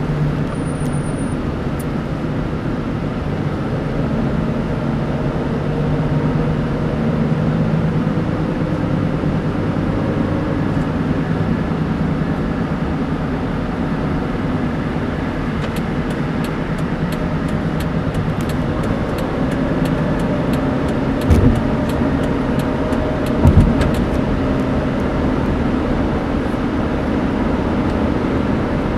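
Steady road and engine noise inside a moving car's cabin, with the engine's hum drifting slightly in pitch. Two short thumps come about two seconds apart past the middle.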